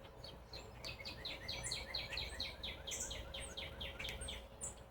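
A songbird singing a fast, even series of repeated down-slurred notes, about four a second, for about three seconds, with a few short high chirps from another bird.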